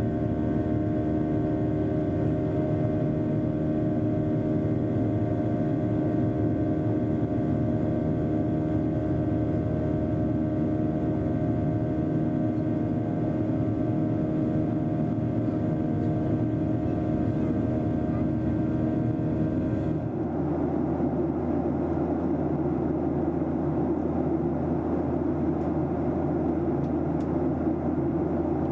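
Cabin noise inside a Boeing 737-300 in flight: a steady jet-engine drone carrying a set of steady humming tones. About two-thirds of the way in it changes abruptly to a rougher rushing noise without the tones.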